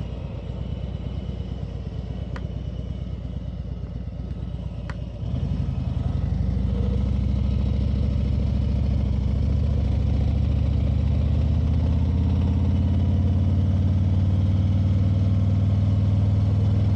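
Motorcycle engine running at light throttle for about five seconds, with two sharp clicks. It then pulls harder, rising in pitch as the bike accelerates, and settles into a steady cruise.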